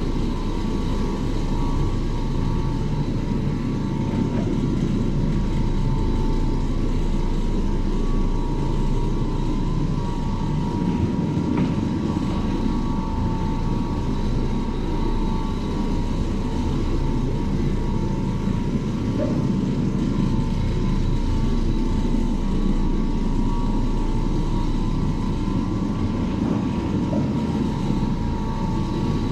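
Oreck Orbiter orbital floor machine running steadily, scrubbing carpet in a low-moisture clean: a constant low rumble with a steady whine.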